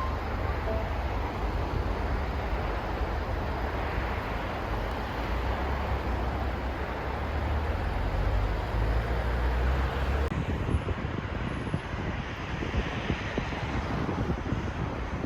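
Outdoor city ambience: a steady rumble and hiss like passing road traffic. About ten seconds in the background changes abruptly and the heavy low rumble drops away.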